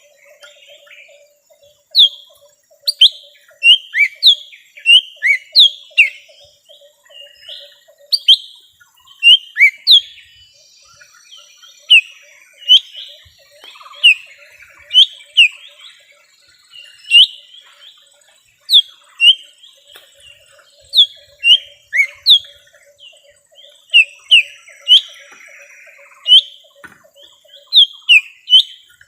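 Lesser green leafbird (cucak ijo mini) calling: loud, sharp chirps that sweep downward, coming singly, in pairs or in quick runs with short pauses between. It is a lure call of the kind used to draw wild birds in.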